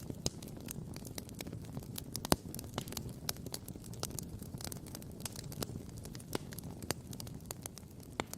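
Wood campfire crackling and popping in many irregular sharp snaps, with one loud pop about two seconds in, over a low steady rumble.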